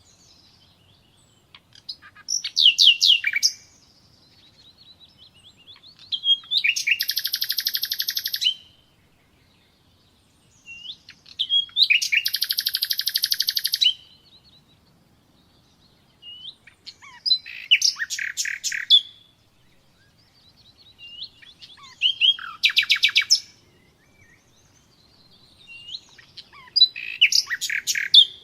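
Nightingale singing: six song phrases a few seconds apart, each a run of fast repeated notes and trills, with short pauses between them.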